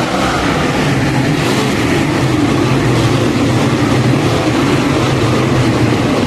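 Racing engines running loud and steady at speed, a dense mechanical noise with an underlying engine drone.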